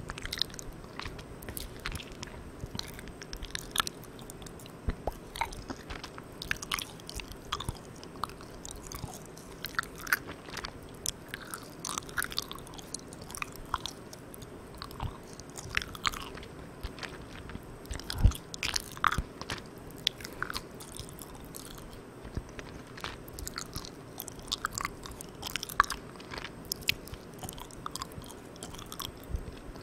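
Close-up chewing of Malang Cow soft, sticky chewy candy: irregular wet mouth clicks and smacks, one sharper than the rest about eighteen seconds in. A steady background hiss runs under it from the recorder's gain turned all the way up.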